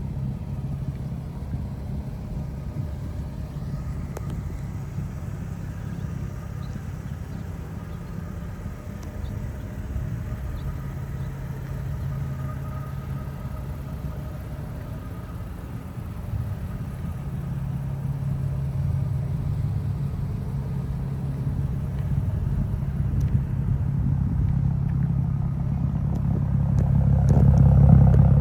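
Exhaust note of a 2006 Infiniti G36 with a modified exhaust, a steady low rumble that grows louder over the second half and swells near the end.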